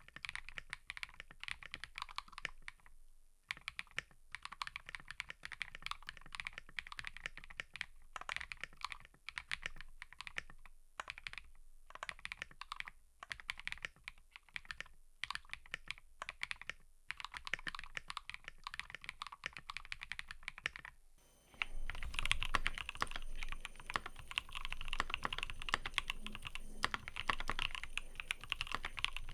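Typing on a mechanical keyboard: a fast, steady run of keystroke clicks broken by short pauses. About two-thirds of the way through the sound changes abruptly to louder, denser typing with a deeper thud to each keystroke.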